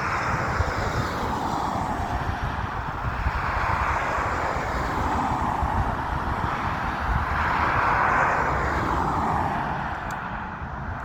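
CFM LEAP-1B jet engines of a departing Boeing 737-8200 MAX, a continuous loud rushing noise that swells and eases, loudest about eight seconds in and fading toward the end, over an irregular low rumble.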